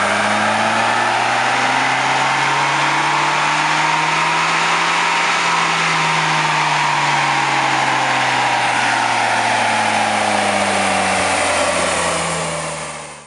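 Tuned Volkswagen Passat 1.9 TDI diesel engine running on a chassis dyno, with the tyres and rollers hissing underneath. The engine note climbs slowly to a peak about halfway through, then falls back, and the sound fades out near the end.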